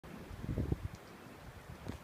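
Wind buffeting the microphone in irregular low gusts, strongest in the first second.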